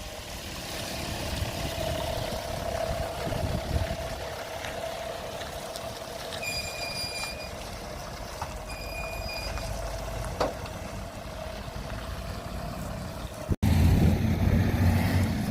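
A vehicle running on the move: a steady engine drone with a held whining tone. Two separate electronic beeps of about a second each come in the middle. Near the end the sound cuts abruptly to a louder, deeper rumble.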